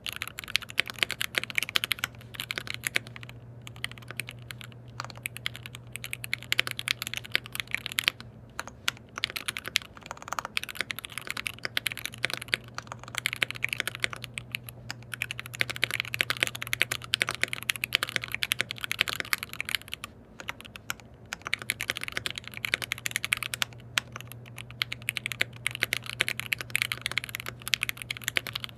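Continuous typing on a KBD67 Lite R3 custom mechanical keyboard with lubed linear switches, in quick bursts of keystrokes broken by brief pauses.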